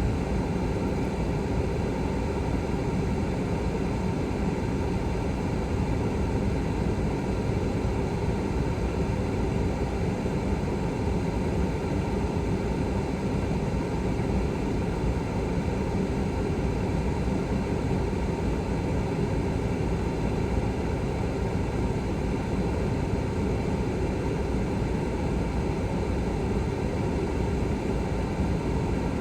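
Truck cab air conditioning blower running on high: a steady rushing noise that does not change.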